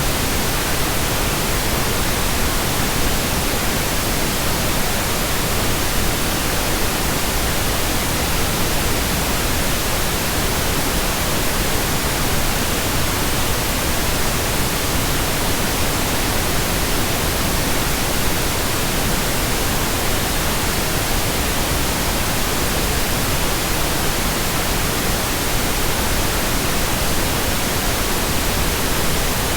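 Steady pink noise: an even, unchanging hiss across all pitches, with no other sound.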